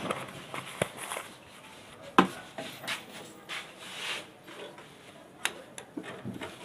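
A few sharp clicks and knocks from the parts of a table fan's motor being handled and fitted together, the loudest about two seconds in, with soft rubbing and scraping between.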